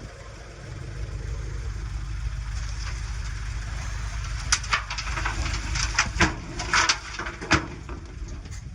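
Heavy diesel engine of earthmoving machinery running steadily, with several sharp clanks over the second half.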